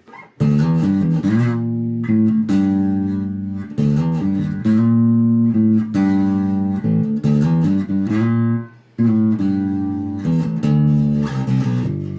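Epiphone Grabber electric bass played loud through a bass amp, its Music Man-style humbucker on with tone and volume full up: phrases of plucked notes, with a brief break about nine seconds in.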